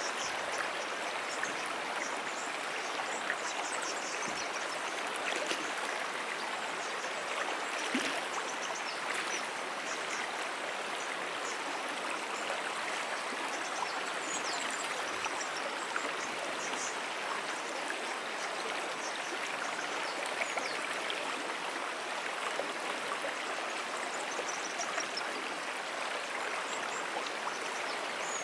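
Small perennial stream flowing: a steady, even rush of running water.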